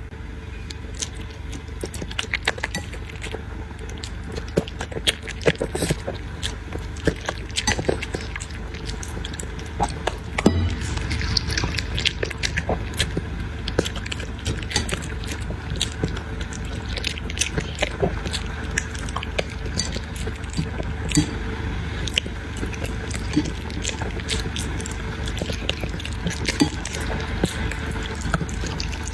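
A puppy eating from a food bowl: a busy, irregular run of small clicks and clinks of food and bowl, with a steady low hum underneath.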